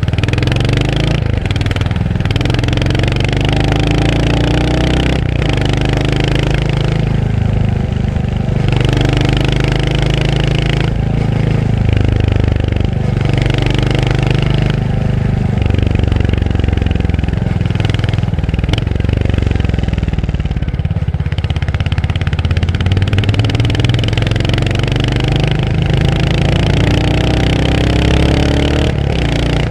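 Royal Enfield Hunter 350's single-cylinder engine running under way. It accelerates repeatedly, its pitch climbing through each gear and dropping briefly at the shifts, over a hiss of wind and road noise.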